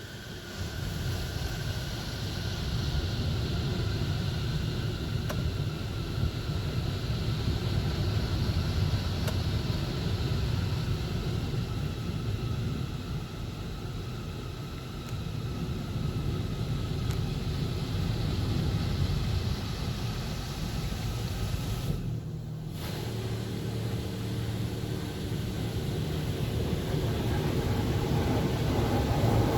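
Coleman Hanna Water Wizard 1.0 touchless car wash running mid-cycle: a steady rush of high-pressure water spray and pump noise. The sound breaks off briefly about 22 seconds in, then resumes with a steady hum added.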